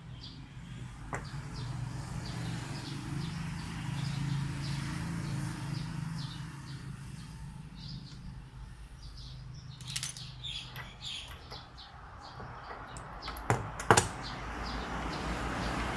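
Short high chirps repeating steadily a few times a second over a low hum, with a few sharp clicks near the end.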